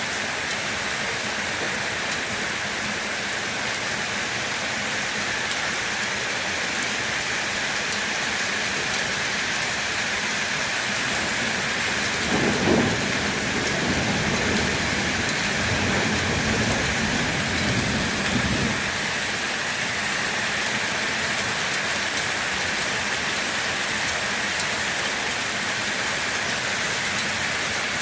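Steady rain falling, an even hiss. About halfway through, a low rumble swells for several seconds and fades back into the rain.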